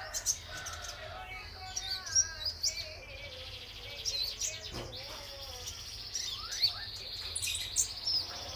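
Male konin trotol songbird singing: quick high chirps, twitters and short trills, over a steady high-pitched buzz.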